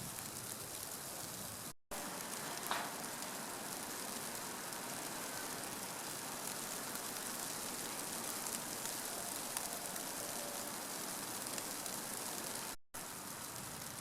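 Steady, even hiss of falling precipitation, rain or wet snow, outdoors in a snowy scene. The sound cuts out completely for a moment twice, about two seconds in and near the end.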